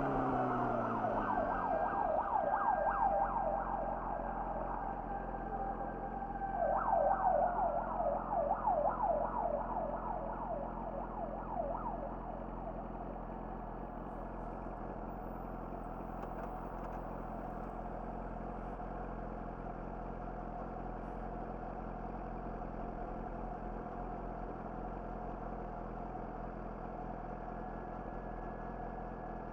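Yamaha YZF-R6's inline-four with an Akrapovic slip-on exhaust, revs falling to idle in the first couple of seconds. An emergency vehicle's siren warbles rapidly for about ten seconds, louder than the engine. The bike then idles steadily.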